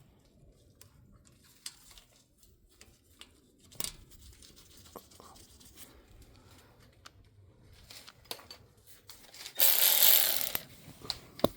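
Scattered light clicks and taps of metal parts being handled and fitted during hub reassembly, then a harsh, scraping rasp lasting about a second near the end.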